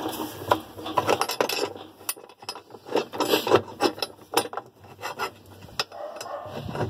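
Washing-machine parts being handled and fitted by hand: irregular scraping and rubbing with many small clicks and knocks.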